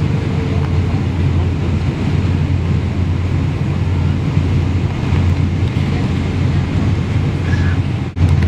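Airliner cabin noise: a steady low rumble of jet engines and rushing air heard from inside the passenger cabin. It cuts out for a split second near the end.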